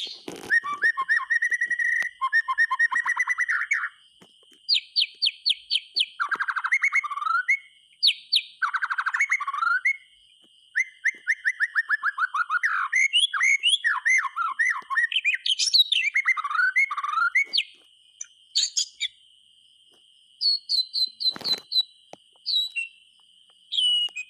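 White-rumped shama (murai batu) singing a long, varied song of loud whistles, rapid trills and chattering phrases, broken by short pauses. A faint steady high tone runs underneath, and a single sharp knock comes about three-quarters of the way through.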